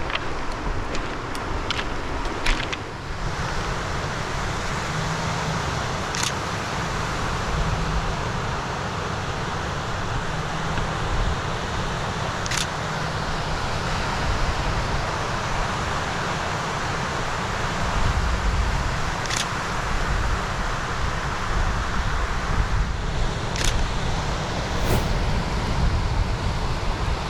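Ocean surf washing on a rocky shore with wind buffeting the microphone, the low rumble swelling in the last ten seconds. A few sharp clicks now and then.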